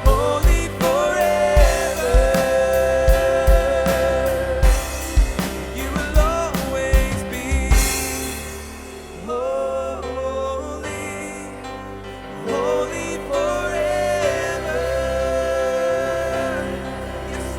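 Live worship band playing: a steady kick-drum beat under sustained keyboard chords and a melodic line for the first half. About eight seconds in the drums drop out, leaving softer sustained keyboard and guitar tones.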